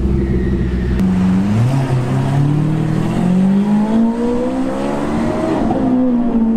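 Car engine accelerating hard: after a gear change about a second in, the engine note climbs steadily in pitch for several seconds, then levels off near the end.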